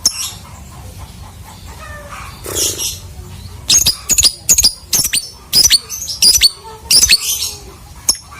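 Lovebird calling: a quick run of about a dozen sharp, shrill chirps, each sweeping downward, starting a little past the midpoint, after a short rustle near the start.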